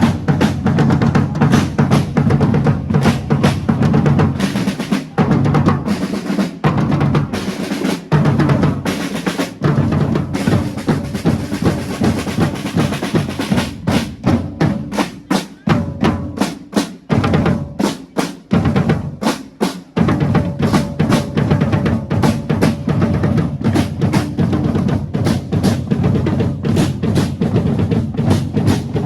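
Drums playing: bass drum and snare drums beating a dense, rapid rhythm. For a stretch in the middle the deep drum drops out and separate strikes stand apart.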